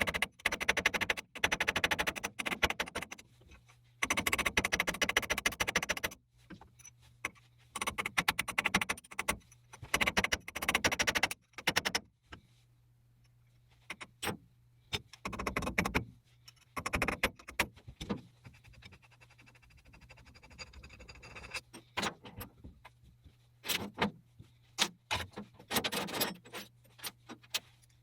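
Repeated bursts of rattling and scraping, each one to two seconds long with short pauses between, over a steady low hum.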